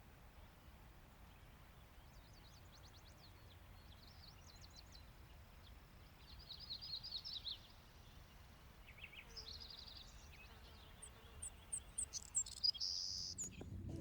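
Small birds chirping in several short bursts of quick repeated notes, with the loudest, highest chirps near the end, over a low steady rumble.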